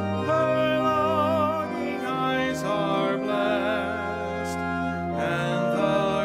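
Music in a church service: a voice singing long, held notes with a strong wavering vibrato over a sustained accompaniment.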